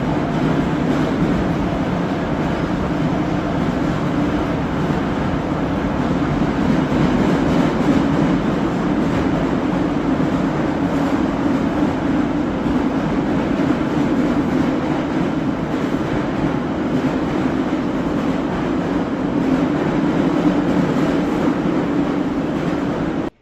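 Moscow Metro 81-717.5M/81-714.5M "Nomernoy" train running at speed through the tunnel, heard from inside the car: a steady rumble of wheels on rail and traction motors. It cuts off abruptly at the very end.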